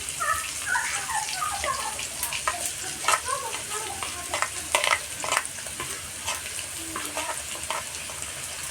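Onions with ginger paste, garlic paste and cumin sizzling in hot mustard oil in a kadai. A spatula clicks and scrapes against the pan as they are stirred.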